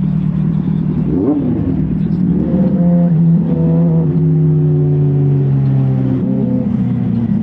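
Motorcycle engine running while riding: a brief rev about a second in, then it pulls up from about two and a half seconds, holds a steady pitch, and eases off a little after six seconds.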